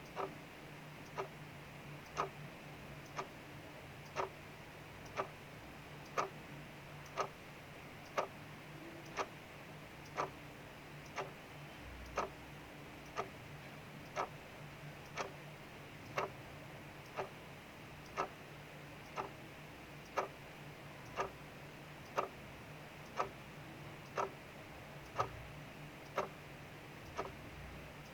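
Clock ticking steadily, about one tick a second, over the soft steady hiss of rain outside and a faint low hum.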